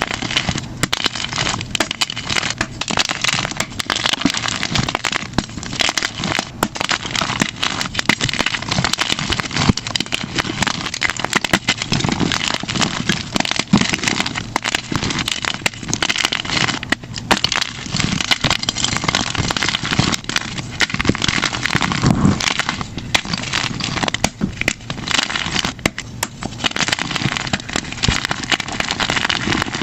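Plain gym chalk blocks crunched and crumbled by hand: a dense crackle of many small cracks, played back at double speed.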